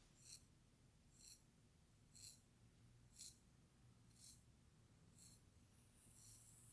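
Slow, even strokes through hair, about one a second, each a short, soft, high hiss. Seven strokes in all.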